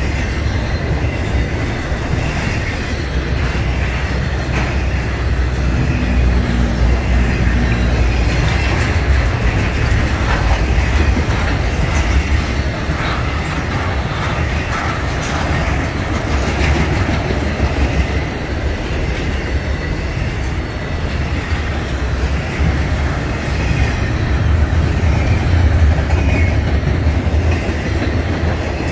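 Intermodal freight train of truck trailers on flatcars rolling past: a steady, loud low rumble with the wheels clacking over the rail joints.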